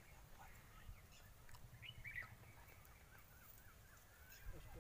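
Near silence: a few faint bird chirps, clustered about two seconds in, over a low background rumble.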